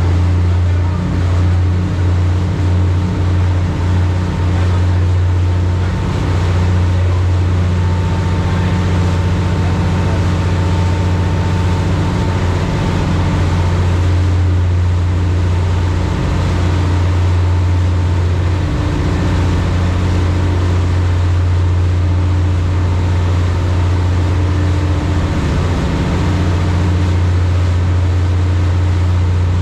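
High-speed passenger boat under way: its engines drone at a steady, deep pitch over a constant rushing noise, with no change in speed.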